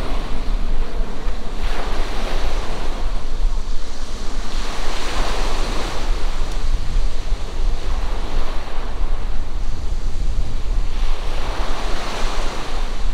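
Sea waves breaking and washing in surges every few seconds, with strong wind rumbling on the microphone.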